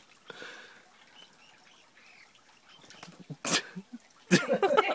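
Short, faint animal calls, then a sharp click about three and a half seconds in and a busier run of pitched calls near the end.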